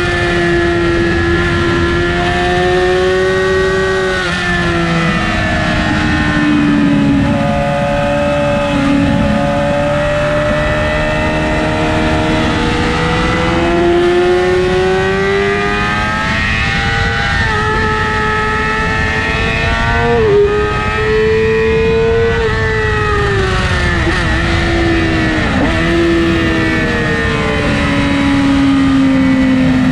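Sport bike engine running hard on a racetrack, its pitch rising and falling repeatedly as the rider accelerates, shifts and slows for corners, with a steady rush of wind noise.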